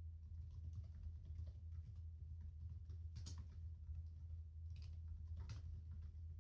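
Laptop keyboard typing: soft, irregular key clicks, with a few louder strokes about halfway and near the end. They sit over a steady low hum of office background noise.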